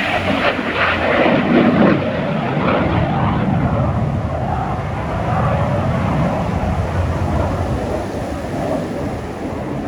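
Aircraft flying past, loudest in the first two seconds, then fading into a steady low rumble as it draws away.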